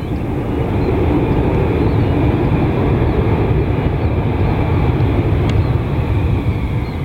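Jet airliner passing close by on the runway: a loud, steady rumble of its engines that swells about a second in, with a faint whine falling in pitch near the end as it goes past.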